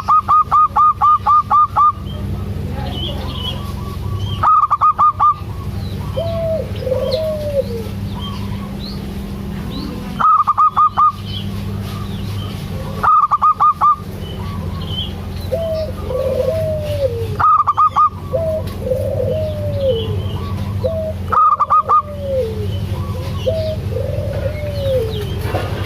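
Perkutut (zebra dove) calling: six loud bursts of rapid staccato notes, each lasting one to two seconds, with softer rising-and-falling coos in between that come more often in the second half.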